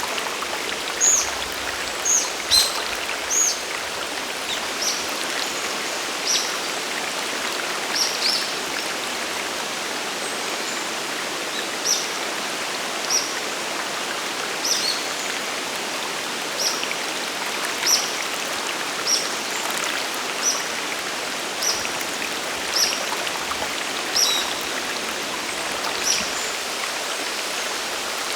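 Steady rush of a waterfall and mountain stream. Over it a bird repeats short, high calls that slide downward in pitch, about one every second or two.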